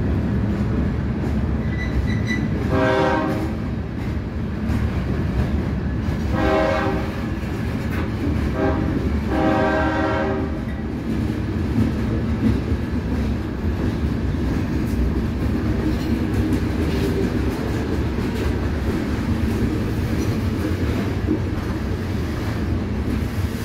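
Steady rumble and clatter of a CSX freight train's gondola cars rolling past. A locomotive air horn sounds four times between about 3 and 11 seconds in: long, long, short, long, the grade-crossing signal.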